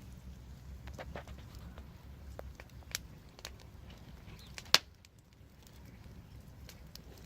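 Wood fire crackling: scattered sharp pops and snaps over a low steady rumble, with one loud pop a few seconds in and a louder one just before the five-second mark.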